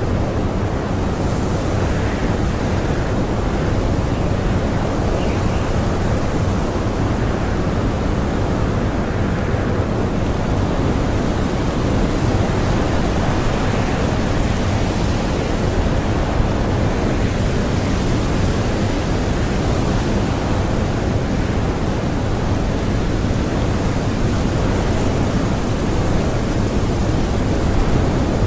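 Strong blizzard wind blowing steadily: a deep, even rush of noise with slight swells and no breaks.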